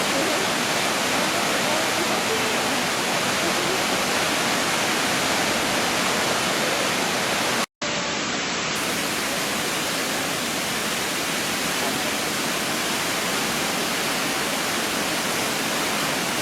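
Steady rushing of a waterfall, the falling water of Shiraito Falls. It drops out for an instant about halfway through, then carries on the same.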